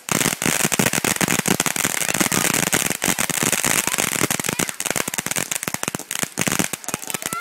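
Ground fountain fireworks spraying sparks and crackling: a dense, rapid stream of sharp pops and snaps.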